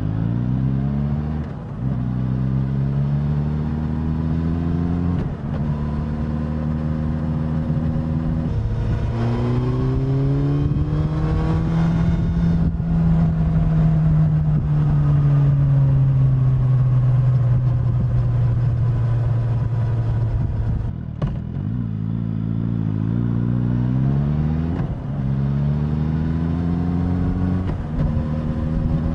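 Suzuki GSX-S1000 inline-four engine and exhaust under way on the road. It pulls up through the gears with several upshifts, its pitch climbing and then dropping at each shift. It holds a steady cruise, eases off briefly about two-thirds of the way through, and then accelerates through the gears again.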